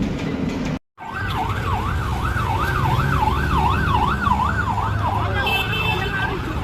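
Electronic vehicle siren warbling fast up and down, about two sweeps a second, over a steady low engine rumble. Before it, music breaks off abruptly just under a second in.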